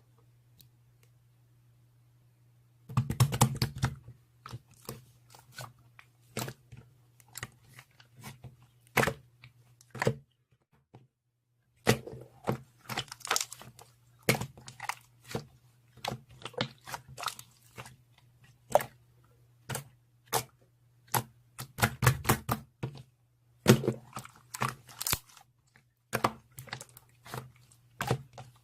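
Slime being squeezed, stretched and poked by hand: irregular pops, clicks and crackles, some in quick clusters. A quiet steady low hum lies behind them and drops out briefly about eleven seconds in.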